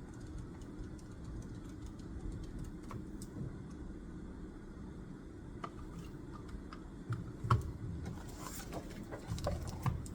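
Scattered small clicks and taps of desk work, sparse at first and thickening in the second half, with one louder knock in the middle, over a steady low room hum.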